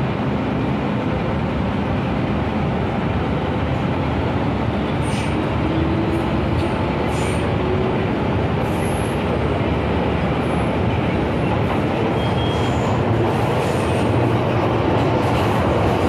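MTR M-Train electric metro train running at speed, heard from inside the carriage: a steady rumble of wheels on rail and traction motors, with a few brief high squeaks.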